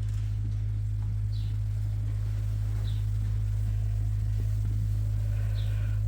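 A steady low hum, with a few short faint high chirps over it: one about a second in, one near three seconds and one near the end.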